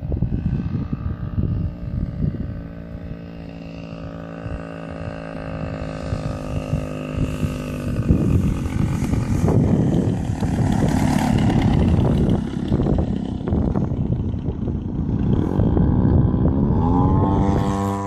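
Model airplane engine running, steady at first. About halfway through it gets louder and rougher, and near the end its pitch rises sharply as it revs up.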